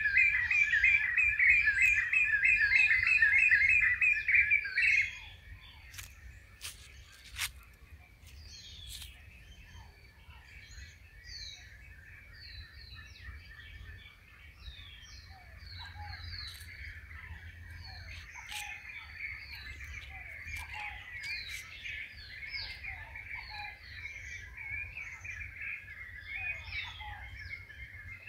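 Birds chirping and calling: a loud, fast chattering run of chirps that cuts off about five seconds in, then many quieter short chirps and calls from several birds.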